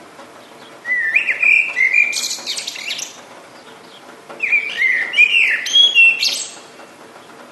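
A songbird singing two phrases, each about two seconds long: slurred whistled notes mixed with harsh, buzzy notes.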